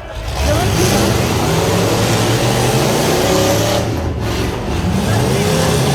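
Half-ton pickup truck engine running loud and revving hard, its pitch swinging up and down, with a short easing off about four seconds in.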